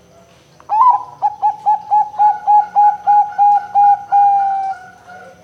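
Zebra dove (perkutut) singing: a rapid, rhythmic series of about a dozen short coos at roughly four a second, ending in a longer drawn-out coo that fades away.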